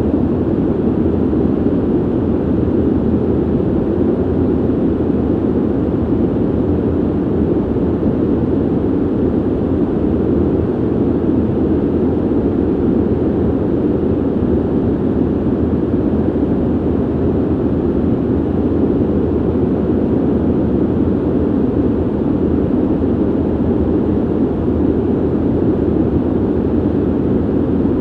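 Ventilation system's steady airflow noise: an even, low rushing sound with little high hiss, unchanging throughout.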